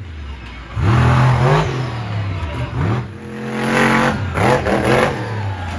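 Monster truck engine revving hard twice: a surge about a second in and another building to a peak near four seconds in.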